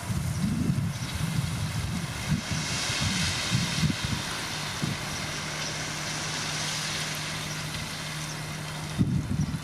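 Diesel engine of heavy earthmoving machinery running, an uneven low rumble that settles into a steady low hum about halfway through, with a hiss over it in the middle. The sound changes abruptly near the end.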